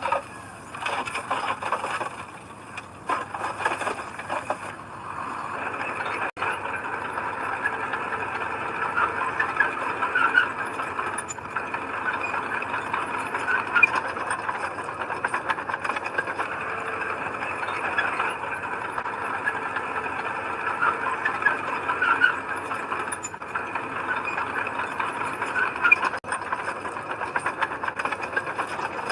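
Heavy earthmoving machinery running, with metal squealing and rattling throughout; uneven for the first few seconds, then steady.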